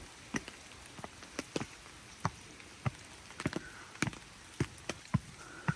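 Rain: scattered drops tick sharply and irregularly, about two or three a second, over a steady faint hiss of falling rain.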